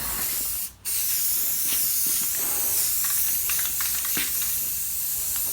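Aerosol spray can of Rust-Oleum filler primer spraying in a steady hiss, released briefly under a second in and then held down again.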